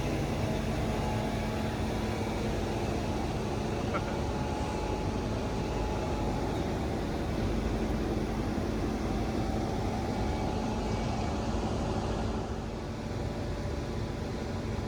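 Truck dumper machinery running with a steady drone and hum while it tilts a loaded tractor-trailer up to empty it, easing slightly near the end.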